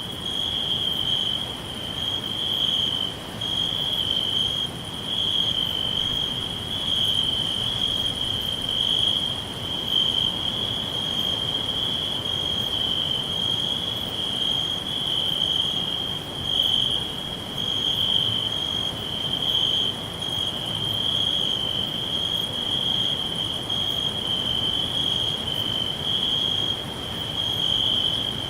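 Crickets chirping without a break, a high, thin trill that pulses in a steady rhythm, over a faint background hiss.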